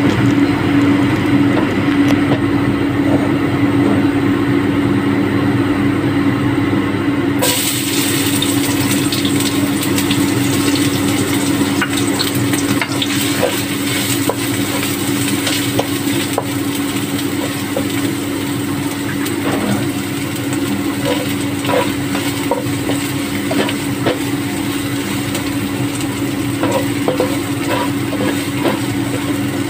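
A gloved hand crumbling cooked rice in a bowl, then, from about seven seconds in, food sizzling in oil in a wok as it is stirred with a spatula that clicks against the pan now and then. A steady low hum runs underneath throughout.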